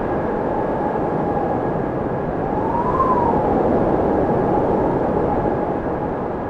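Wind blowing steadily, with a whistling tone that rises in pitch and falls back about three seconds in.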